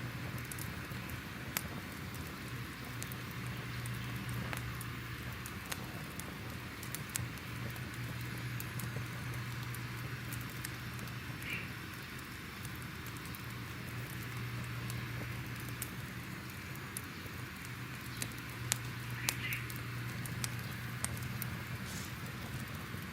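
Crackling fireplace ambience: a steady low rumble with scattered sharp pops and crackles throughout. Two brief higher squeaks come about halfway through and again near the end.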